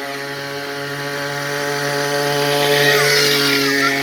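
Small motorcycle engine running at a steady pitch with a buzzy, chainsaw-like tone, getting louder as it comes closer and peaking about three seconds in.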